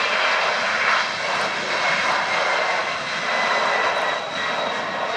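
Jet airliner engines running, a loud steady rush with faint high whining tones through it.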